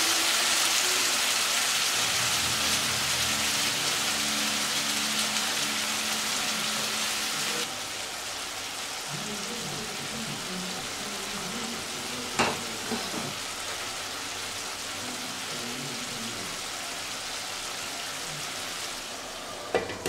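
Beef liver and sweet peppers sizzling in a frying pan, a steady hiss that drops suddenly to a quieter level about a third of the way through. A single knock comes partway through, and a glass pan lid clatters into place at the very end.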